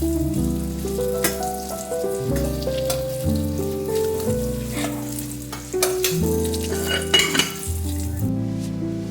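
Food frying and sizzling in a pan, with clicks of a utensil stirring and a louder burst of sizzling about seven seconds in, over soft background music with held chords.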